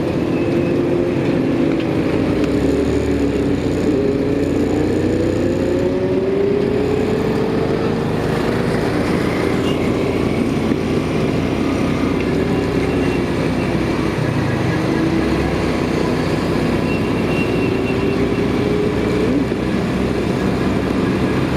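Motorcycle engine running while riding, its pitch slowly rising and falling with the throttle, over steady road noise.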